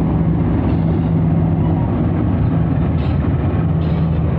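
Diesel locomotive of a container train running close by, a loud, steady, low engine drone over a continuous rumble.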